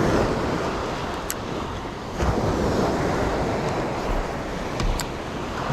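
Waves and surf washing steadily, with wind buffeting the microphone. Two short light clicks stand out, about a second in and near the end.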